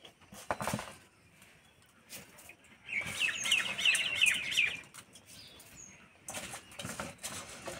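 A bird twitters, a quick run of short chirps lasting about two seconds in the middle. Before and after it come brief handling sounds of wet rice being scooped out of a mesh strainer into a steel bowl.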